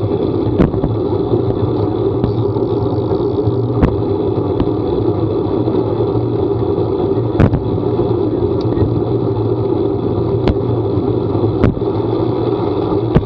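A vehicle running steadily, heard from on board, with a handful of sharp knocks at irregular moments.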